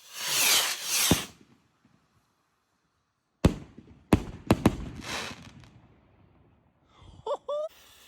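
Fireworks going off at close range: two loud whooshing hisses and a sharp bang in the first second or so, then after a sudden gap a quick run of four sharp bangs about three and a half seconds in, trailing off into a hissing crackle. Near the end come two short rising pitched sounds.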